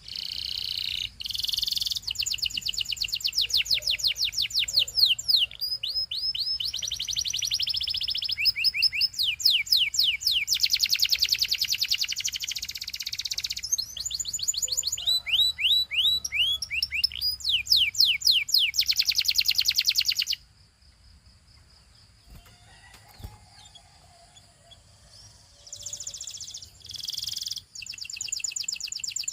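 Domestic canary singing: fast trills of repeated, quickly falling notes, strung into phrases one after another. It stops for about five seconds two-thirds of the way through, then starts again near the end.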